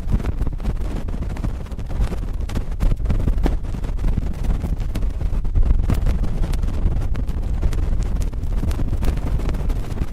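Cotton swab scratching and rubbing directly on a microphone: a steady low rumble of handling noise, dotted with many small crackling clicks.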